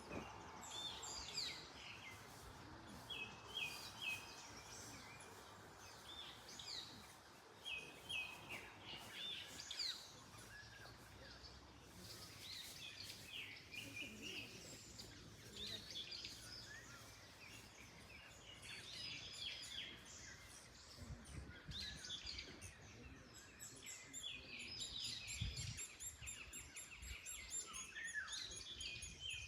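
Several birds chirping and singing in short phrases throughout, over a faint rustle of wind in trees.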